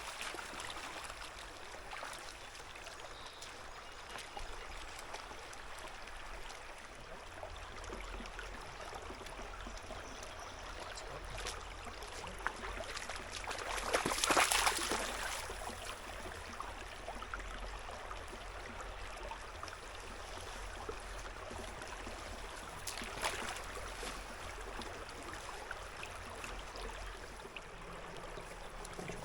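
A creek flowing and trickling with a steady rush of water, with a brief louder surge about halfway through.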